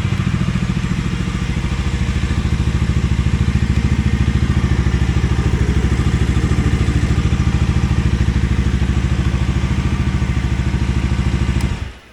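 Bajaj Dominar 250's single-cylinder engine idling steadily with an even pulse, then switched off near the end, stopping abruptly.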